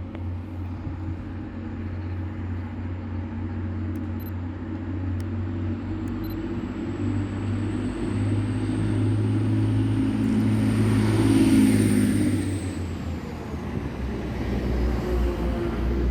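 Train engine running steadily as a train moves through the station, with a thin high whine that slowly rises in pitch and then drops away; the sound builds to its loudest about three-quarters of the way through.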